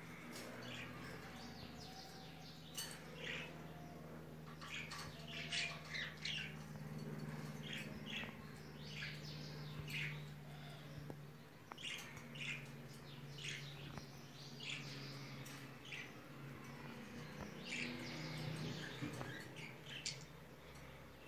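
Small birds chirping over and over in short, high calls, over a steady low hum.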